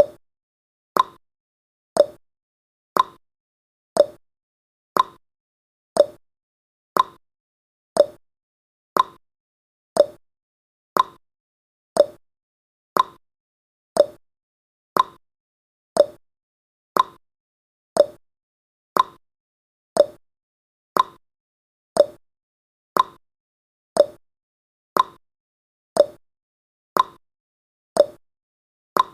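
Countdown timer's clock-tick sound effect: one short tick every second, alternating between a higher and a lower click like a tick-tock.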